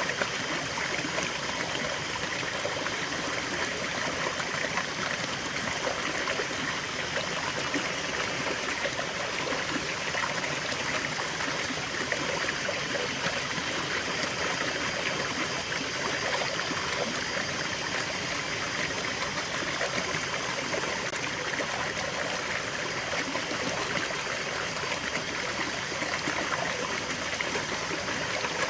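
Small stream of water running and trickling steadily, a continuous even rush with no breaks.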